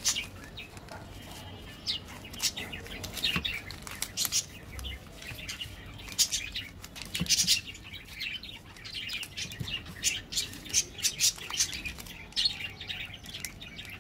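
Small birds chirping over and over in the background, mixed with the crinkle and tap of plastic chocolate-bar wrappers being handled and set down on a table.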